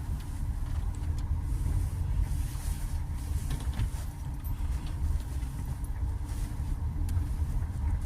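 Steady low rumble of a car driving on a road.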